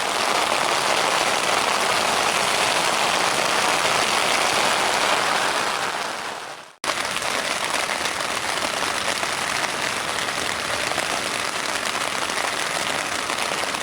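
Pouring rain falling on a tent, a steady dense hiss of drops. About halfway through it fades away and then cuts back in abruptly.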